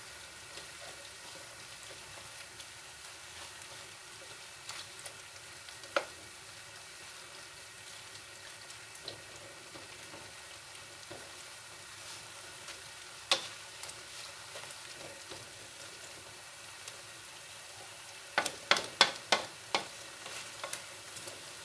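Shrimp and beef strips sizzling in a hot metal wok while being stirred with a spatula. There is a steady hiss, with a few sharp knocks of the spatula against the pan and a quick run of knocks near the end.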